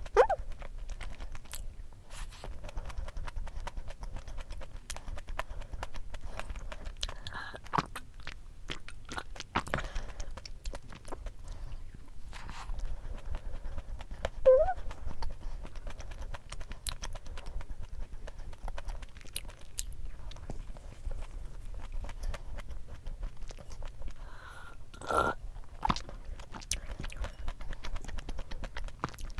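Close-up chewing and biting of a thick Levain-style cookie, with small crumbly clicks and mouth sounds. A cat mews briefly a few times: just after the start, about halfway, and near the end.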